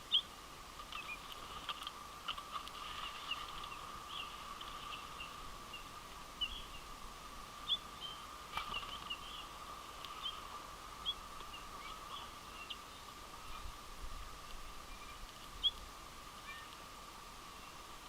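Winter finches calling at a feeder: a scatter of short, high chirps, one after another, over a steady faint hum.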